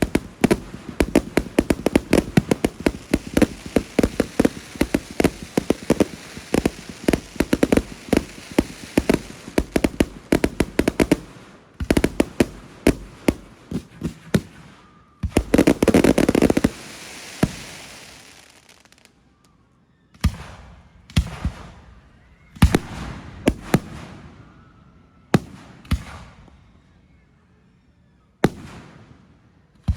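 Fireworks display, hand fired: a rapid volley of many bangs that thins out, then a loud rushing sound lasting over a second. After that come single bangs every second or two, each trailing off in a long echo.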